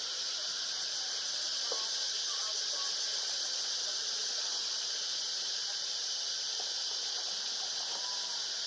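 A steady high-pitched hiss, with a few faint short squeaks about two seconds in and again near the end.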